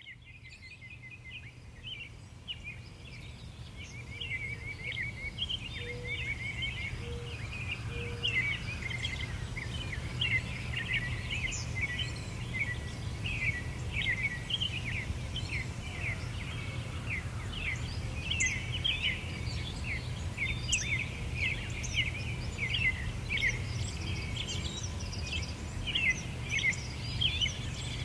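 Songbirds chirping and trilling busily over a steady low rumble, fading in from silence over the first few seconds.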